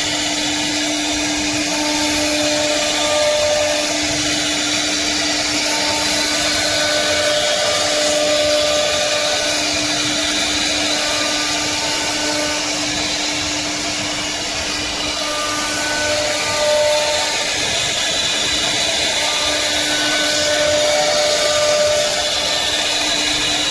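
CNC router running steadily as it cuts a wooden door panel: a constant machine noise with a steady hum, and shorter higher tones that come and go as the machine moves.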